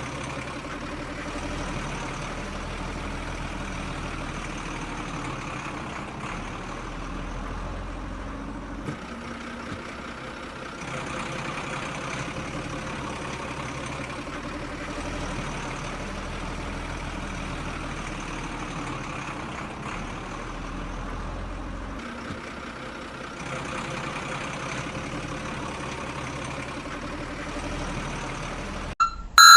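Mini tractor's motor running steadily, its sound shifting a few times. Loud electronic beeping starts just before the end.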